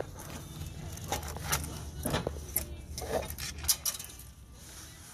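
Metal tools and small engine parts clicking and clattering as a snowblower engine is taken apart, with a cluster of sharp clicks through the middle over a steady low hum.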